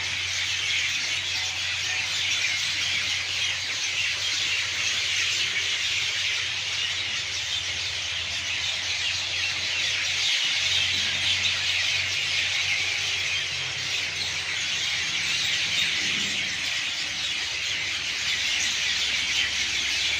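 A dense, steady chorus of many birds calling and chattering at once, an unbroken high-pitched din.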